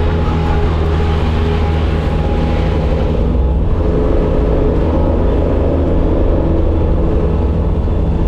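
Bobcat skid steer's diesel engine running steadily under work, with an even, unbroken drone.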